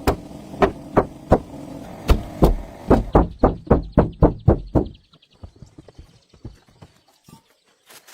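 A long-idle car engine running roughly, with loud knocks or pops that come faster and faster, then cutting out about five seconds in. A few faint clicks follow.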